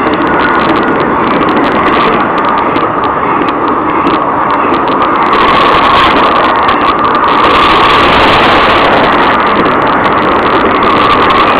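Intermodal piggy-back freight train passing at speed: steady rolling noise of steel wheels on rail with many sharp clicks, growing somewhat louder about five seconds in.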